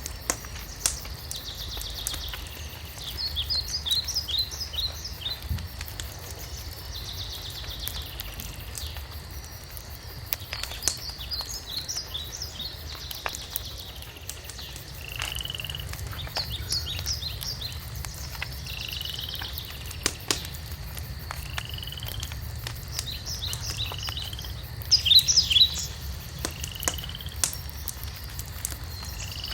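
Wood fire crackling with scattered sharp pops over a low steady rumble, under repeated high chirping calls from small animals, with a loud cluster of calls about 25 seconds in.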